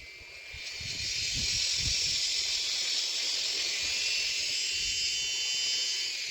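Shrike nestlings begging in a raspy, hissing chorus that swells up about half a second in, holds steady, and dies down near the end.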